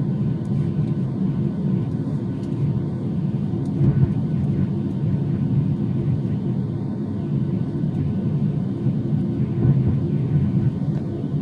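Jet airliner engines, a steady low rumble that holds even throughout.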